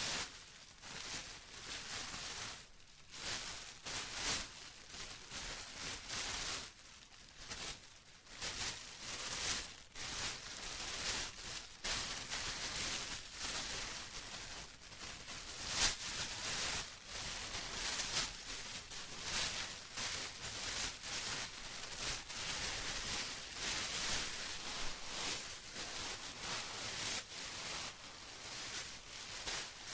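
Plastic being rustled and crinkled by hand, with irregular crackling swells that rise and fall continuously.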